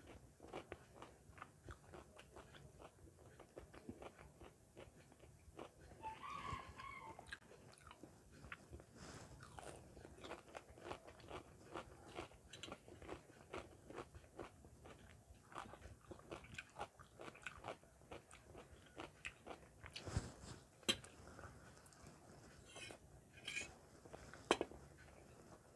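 Close-miked chewing and crunching of a person eating samosa and raw cucumber slices, a steady run of small wet mouth clicks and crunches, with a few sharper crunches in the last few seconds.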